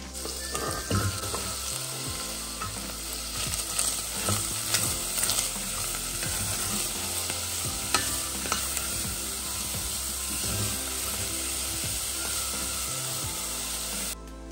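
Bacon, sliced Bavarian sausages and diced onion sizzling steadily as they fry in a steel pot, stirred with a wooden spatula that scrapes and knocks against the pot now and then. The sizzle cuts off abruptly just before the end.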